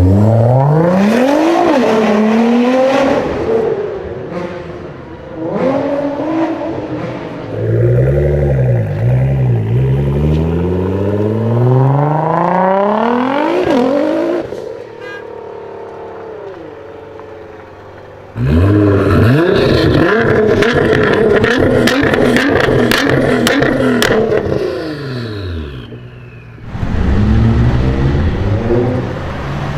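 Nissan GT-R R35 twin-turbo V6 engine revving and accelerating in a series of short clips, the revs climbing and dropping again and again. About eighteen seconds in, a loud full-throttle pull comes in with a run of sharp cracks. It then falls away in pitch before another loud pass near the end.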